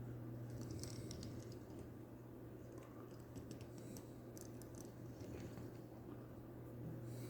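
Faint scattered clicks and light ticks of a small diecast toy being handled, in loose clusters, over a steady low electrical hum.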